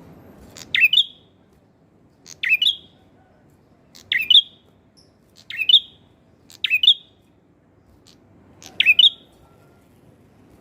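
Male prenjak kepala merah (red-headed prenjak) singing: six short bursts of quick, sharp chirps, each rising to a high note, repeated every one and a half to two seconds.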